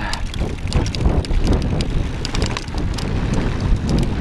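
Wind on the microphone of a moving e-mountain bike, with dense low noise and frequent sharp clicks and rattles from the bike rolling over a rough dirt trail.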